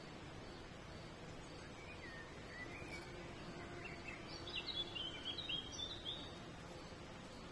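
A songbird sings one phrase over steady background noise: a few slurred notes about two seconds in, then a quicker run of higher notes that is the loudest part.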